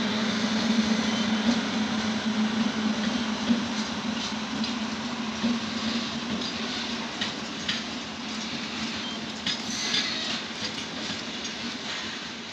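Trains running on the rails: a steady rumble of wheels with a low hum, and a scatter of short clicks from wheels on rail joints in the second half. The sound eases off slightly toward the end.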